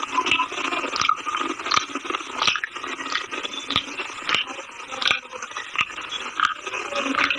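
A person biting and chewing a hard, chalky mineral snack close to the microphone: gritty, steady chewing with a sharp crunch about every two-thirds of a second.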